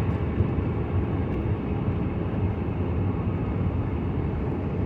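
Steady road and engine noise of a car being driven on a wet road, heard from inside the cabin.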